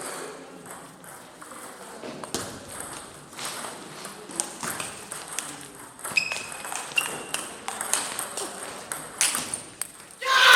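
Table tennis rally: the ball clicking sharply off bats and table in an irregular series of ticks.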